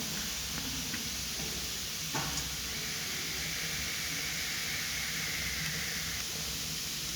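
Wood fire burning in an open fireplace: a steady hiss with a sharp crackle about two seconds in.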